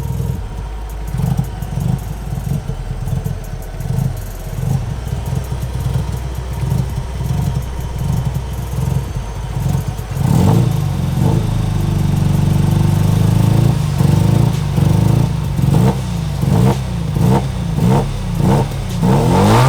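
Mazda RX-7's 13B rotary engine driving under throttle. From about halfway it gets louder and its note keeps rising and cutting out, more than once a second: an engine breakup that the owner can't pin down and suspects may be the throttle position sensor.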